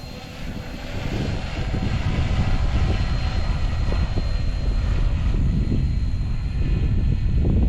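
Electric SAB Goblin RC helicopter in flight, its rotor and motor giving a steady high whine over a low rushing noise. The sound swells about a second in.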